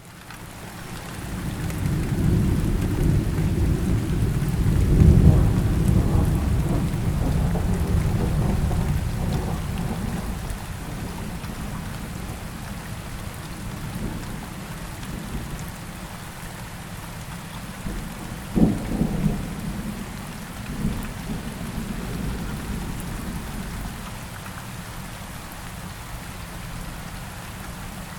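Steady rain falling in a thunderstorm. A long, low roll of thunder builds over the first few seconds and fades away by about ten seconds in, and a shorter, sharper thunderclap comes about two-thirds of the way through.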